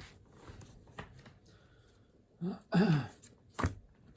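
A brief vocal sound from a man about two and a half seconds in, followed by a sharp click; faint small ticks before it.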